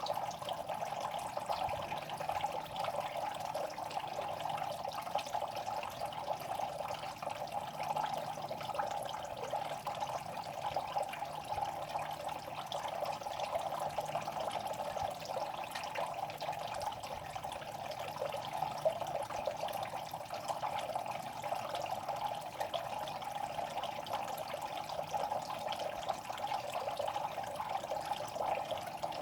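Steady trickling and splashing of water in a fish pond, with small scattered clicks and pops through it; the uploader puts the noise down to the fish.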